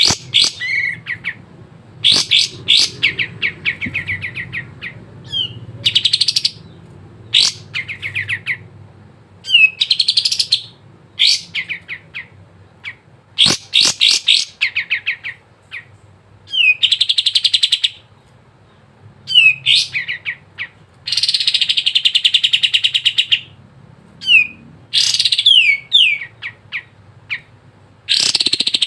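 Kapas tembak bulbul singing steadily: repeated high, rapid-trilled phrases of one to two seconds with short pauses between, mixed with quick single notes.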